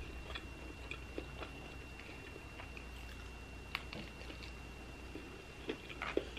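Close-miked eating: a bite into an ahi tuna sushi burger with a rice bun, and soft chewing with faint scattered mouth clicks, more of them near the end.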